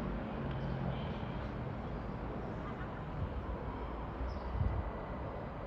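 Steady low rumble of a Southeastern Class 375 electric multiple unit, with a few faint short high chirps.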